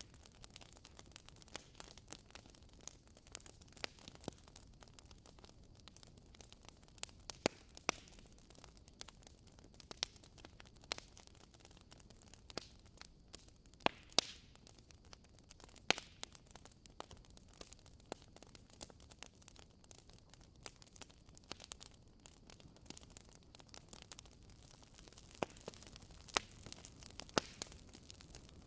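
Wood fire in a fireplace crackling, with irregular sharp pops and snaps of varied loudness over a faint, even hiss of burning logs.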